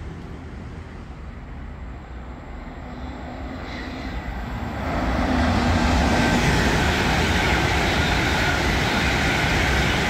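Trains passing through a station. The noise of wheels on rail grows markedly louder about five seconds in as a passenger train goes by, and a diesel freight locomotive approaches behind it.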